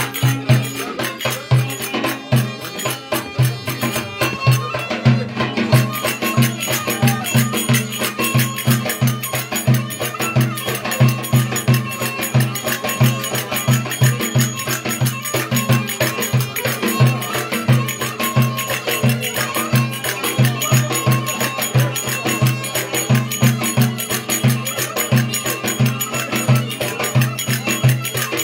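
Traditional folk music with a steady, fast drum beat under a melody.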